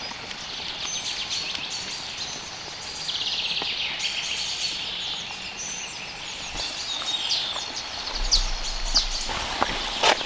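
Forest birds calling and singing over a steady background hiss, with a fast, even trill lasting about a second about three seconds in, and sharp high chirps near the end.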